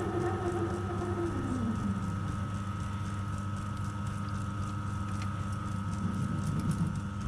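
Workshop machine tool motor running with a steady hum while machining a nylon part; a tone falls in pitch during the first two seconds, then the hum holds steady.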